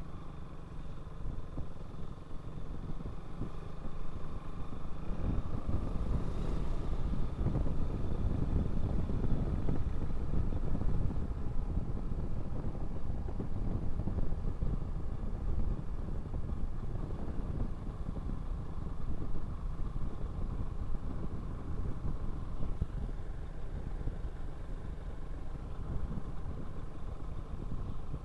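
Motorcycle running on the move, with a steady low rumble of road and wind noise that swells in the middle and eases toward the end.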